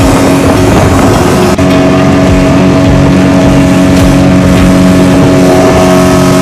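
Speedboat's engine running at a steady pitch under way, over a dense rushing noise.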